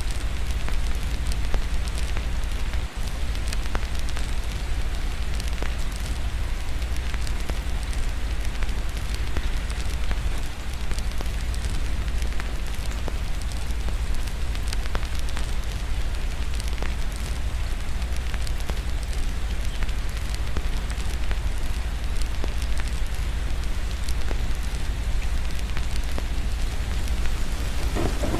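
Wood fire crackling, with frequent short sharp pops, over a steady hiss of rain and a constant low rumble.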